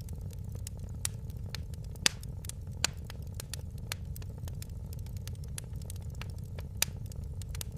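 Wood fire crackling: a steady low rush of the flames with frequent sharp snaps and pops, a few louder pops about two, three and seven seconds in.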